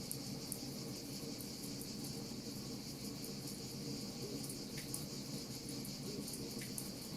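Wood fire crackling with many small, irregular pops over a steady high-pitched hiss.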